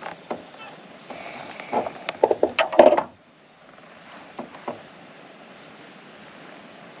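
Knocks and clatter of handling on a kayak over the first three seconds, then a steady low hiss.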